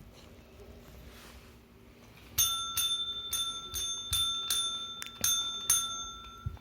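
A small metal bell rung rapidly, about ten strikes in four seconds, starting a couple of seconds in, its ringing tone held between strikes.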